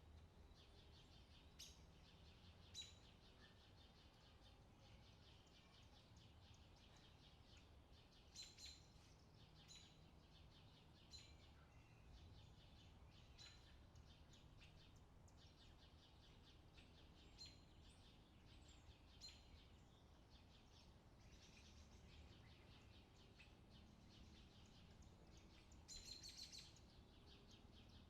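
Faint summer forest birdsong: many short, high chirps and calls from several small birds, with a brief flurry of calls near the end, over a low steady background hum.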